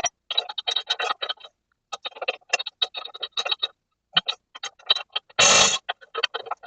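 Hand-tool work on a car's front suspension: runs of quick, irregular metallic clicks and ticks. About five and a half seconds in comes a short burst of hiss lasting about half a second.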